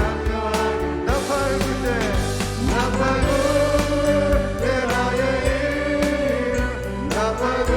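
Church praise team singing a worship song with band accompaniment, the voices held over steady bass notes and a regular beat.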